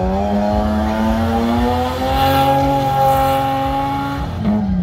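Car engine held at high revs during a burnout, its pitch creeping up slowly and then dropping away near the end, with tyres spinning against the tarmac.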